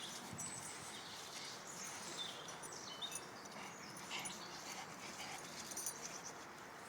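Dogo Argentino puppy making faint, scattered small sounds, with a few brief high-pitched whimpers about three seconds in.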